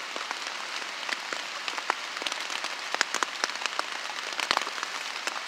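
Rain falling on a tarp: a steady hiss of rain with many sharp, irregular hits of single drops on the sheet.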